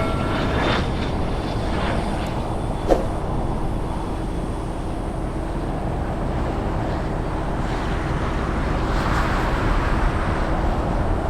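Steady outdoor vehicle noise with a low hum, swelling slightly near the end, with one short click about three seconds in.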